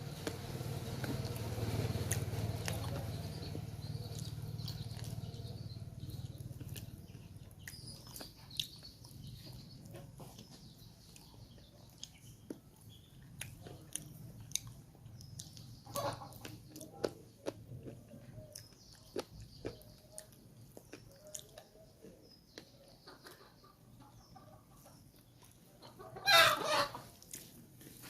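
Close-up eating sounds: scattered small clicks and smacks of chewing and handling food, with a low hum that fades after the first several seconds. Chickens cluck in the background, and near the end one chicken calls out loudly, the loudest sound here.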